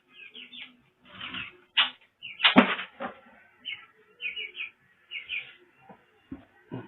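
Black-browed reed warbler (kerak basi) giving short, harsh chirps in quick clusters of two or three, broken by a few sharp knocks from its cage; the loudest knock comes about two and a half seconds in.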